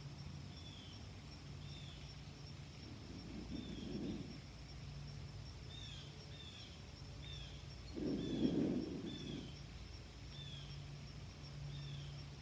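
Outdoor ambience with a small bird repeating short, high, falling chirps about once a second over a faint steady background hiss. A soft low rush swells briefly about four seconds in and again, louder, about eight seconds in.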